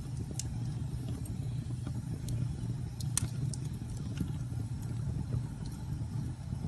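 Fireplace crackling: scattered sharp pops and snaps, one louder pop about three seconds in, over a steady low rumble.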